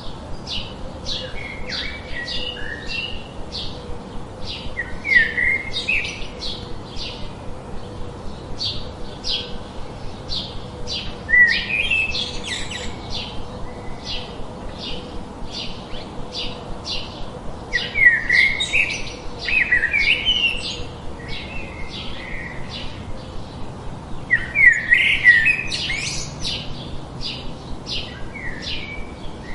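Songbirds chirping: a steady run of short, high chirps about two or three a second, with louder warbled phrases from a second bird breaking in several times.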